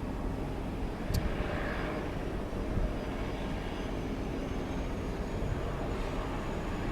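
Twin PT6A turboprop engines of a DHC-6-400 Twin Otter running steadily, with a faint high whine coming in about four seconds in and a brief click about a second in.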